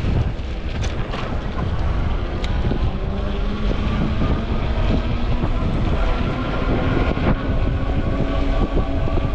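Wind buffeting the microphone during a ride on a fat-tire electric bike, a dense low rumble with a few sharp ticks early on. From about three seconds in, a faint steady hum joins it.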